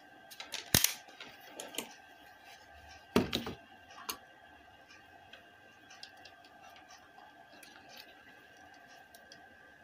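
Clicks and knocks of tools and parts being handled on a repair bench: a sharp knock about a second in and a louder cluster of knocks about three seconds in, with scattered small clicks. A faint steady whine runs underneath.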